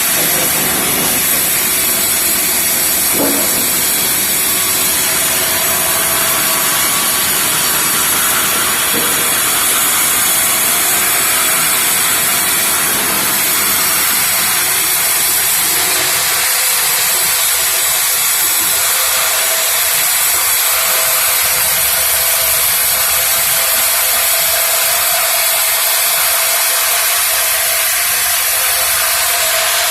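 Sawmill machine running steadily, sawing timber into planks: a loud, even hiss with a steady hum, the low rumble dropping away about halfway through.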